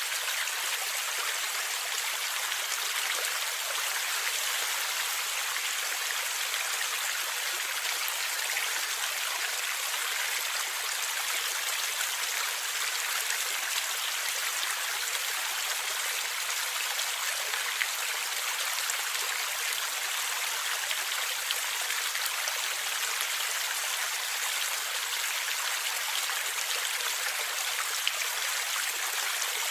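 Stream water flowing and gurgling steadily: an even rush of running water, mostly high in pitch, with little deep rumble.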